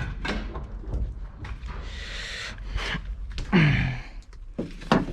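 Tools and parts being handled: scattered short clicks and knocks, with a breathy hiss about two seconds in and a brief falling squeak-like sound a little later.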